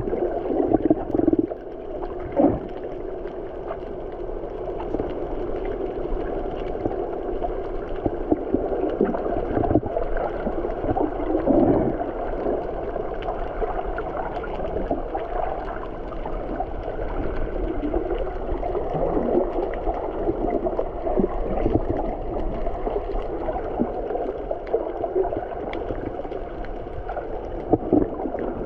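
Continuous, muffled gurgling and rushing of water.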